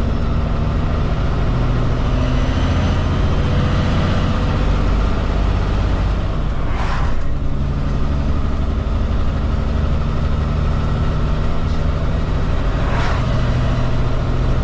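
Kenworth K200 road train's Cummins X15 diesel heard from inside the cab, pulling hard under heavy load as it accelerates, revving out to about 2,000 rpm under the automatic gearbox. The engine note breaks briefly about seven seconds in and again near the end.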